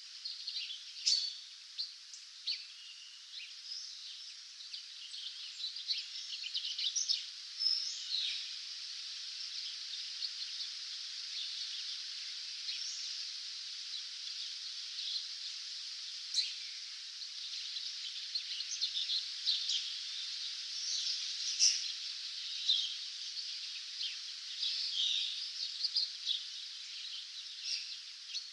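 Dawn chorus of many songbirds: overlapping high chirps, trills and whistles over a steady high hiss.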